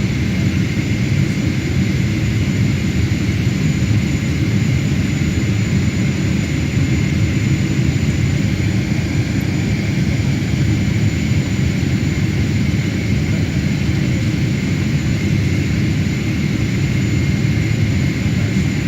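Boeing 777-300ER's jet noise: a steady low rumble with a thin, high, unchanging whine over it.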